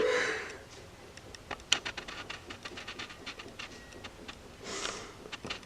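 Faint scattered clicks and ticks, with a breathy sniffle from a woman crying about five seconds in.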